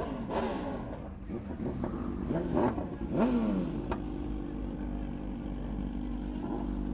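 Motorcycle engines idling, with several short revs rising and falling in pitch during the first half.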